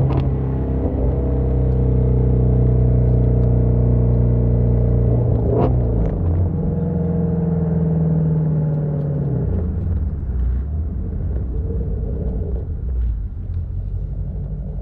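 Shelby GT350's 5.2-litre flat-plane-crank V8 running at a steady pitch, with a sharp click about halfway. The engine note then changes to another steady pitch and turns rougher and less even in the last few seconds.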